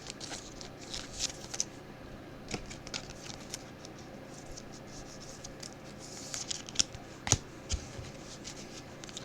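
Faint, scattered rustles and small clicks of trading cards and pack wrappers being handled as packs are opened and cards are flipped through, with a few sharper ticks near the end.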